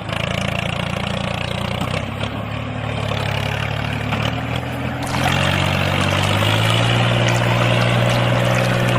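Small motor of a miniature model water pump running with a steady hum, with water pouring and splashing; the sound gets louder about five seconds in.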